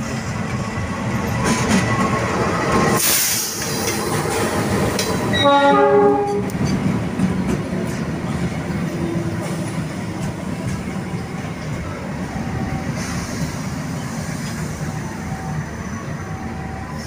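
Diesel-hauled passenger train passing close by: the coaches roll over the rails with a steady rumble and clickety-clack. A brief hiss comes about three seconds in, and a short horn blast sounds about six seconds in, the loudest moment.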